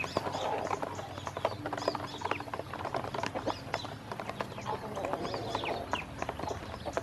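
Ducklings peeping with short, high, falling calls over a fast, irregular patter of clicks and taps from their bills at the feed.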